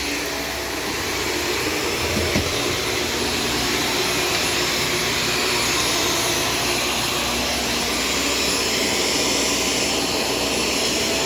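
Shark Stratos vacuum cleaner running steadily, with a brief knock about two seconds in.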